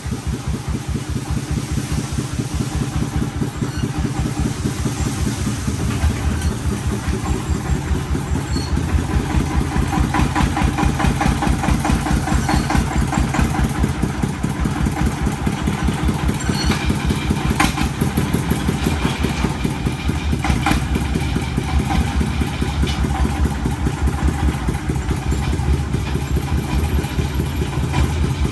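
Engine of a small agricultural vehicle running steadily, with even, rapid firing pulses. Two sharp knocks ring out in the second half.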